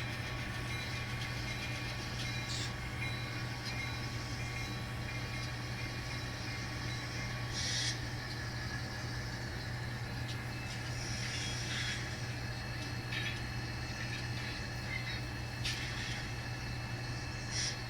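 N scale model train running slowly, with a steady low engine-like hum and a few brief hisses now and then.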